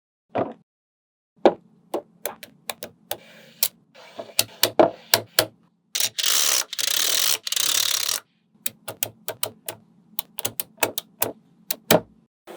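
Small magnetic balls clicking as they snap onto each other, one sharp click at a time at an uneven pace, with a dense rattle of many balls for about two seconds in the middle.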